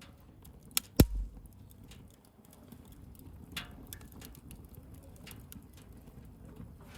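Wood bonfire crackling, with scattered small snaps over a low steady rush and two sharp, loud pops about a second in.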